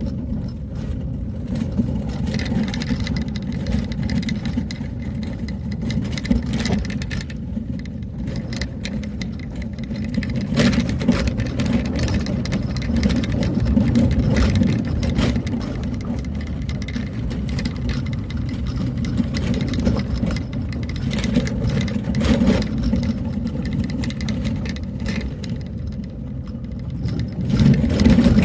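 A vehicle driving along a road, its engine running steadily with a low rumble, with scattered knocks and rattles from the ride.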